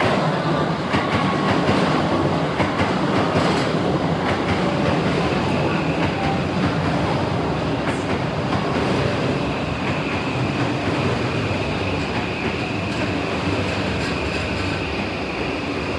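Electric commuter train running on the tracks close by, with a few wheel knocks and a steady high whine that sets in about six seconds in.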